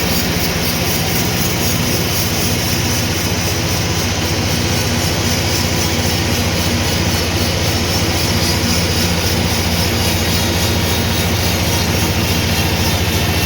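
Sawmill machinery running steadily: a constant low hum under an even wash of mechanical noise, with no change in pitch or load.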